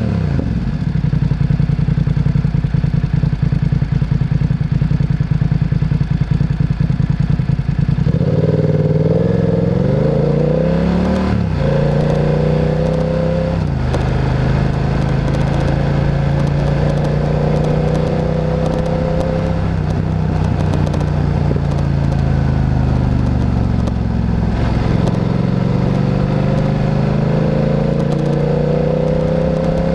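Motorcycle engine ticking over steadily for about eight seconds, then pulling away: the pitch climbs, drops sharply at gear changes about 11 and 14 seconds in, and keeps rising slowly. The engine eases off a little past 20 seconds and then accelerates again toward the end.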